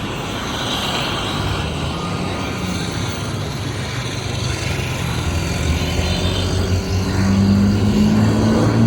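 Street traffic: motor vehicle engines running, with a heavy vehicle's low engine growing louder over the last couple of seconds.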